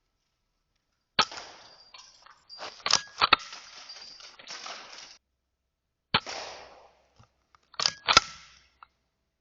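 Weihrauch HW100 .22 pre-charged pneumatic air rifle firing: about six sharp cracks, some paired about a third of a second apart, each trailing off into a short noisy tail.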